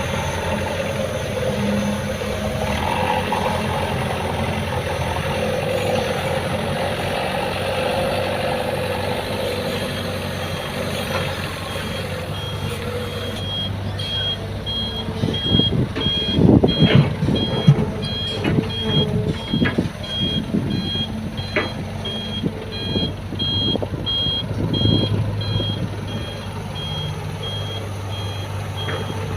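Excavator's diesel engine working under hydraulic load, joined about halfway through by a reversing alarm beeping about once a second. Irregular heavy clunks and knocks come in the middle.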